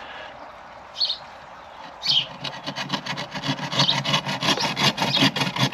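Homemade buck saw cutting through wood by hand. It starts about two seconds in as a fast run of rasping push-and-pull strokes.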